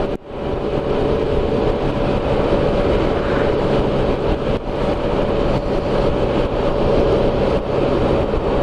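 Can-Am Spyder RT's Rotax 1330 three-cylinder engine running steadily at cruising speed, with road noise. The sound dips briefly just after the start.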